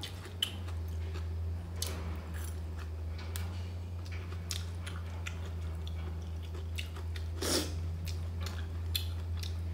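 Close-up chewing of stir-fried vegetable noodles: wet mouth sounds with many small crunches and clicks, and one louder sound about seven and a half seconds in, over a steady low hum.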